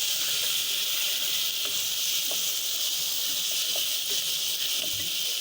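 Thinly sliced pork frying with onions, carrots and garlic in a pan: a steady, high sizzle with a few small pops.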